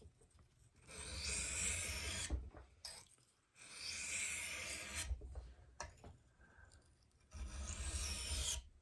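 Steel knife blade drawn across a wet Japanese whetstone in three slow, even strokes, a gritty scraping with short pauses between strokes as the edge is honed on the finer stone.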